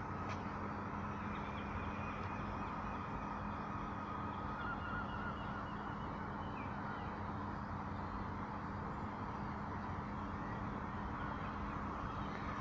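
Steady outdoor background noise with a low, even hum, and a few faint high chirps.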